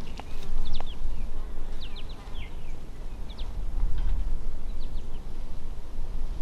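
Small birds chirping: short, thin, falling chirps every second or so, over a steady low rumble.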